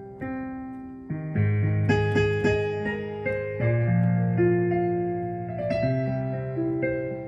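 Electric keyboard played in a piano voice: slow sustained chords with a low bass, a new chord struck about every second.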